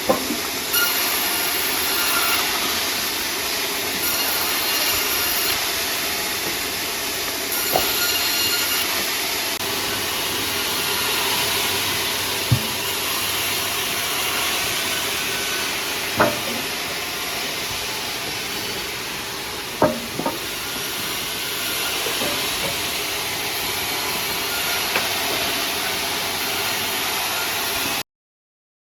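Sawmill saw running through wood: a loud, steady, noisy whir with about five sharp knocks along the way. It cuts off suddenly near the end.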